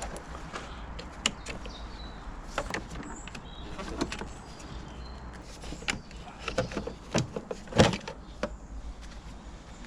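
Irregular clicks and knocks of plastic and metal parts being handled as the ECU is worked loose in a car's engine bay. The loudest knock comes a little under eight seconds in.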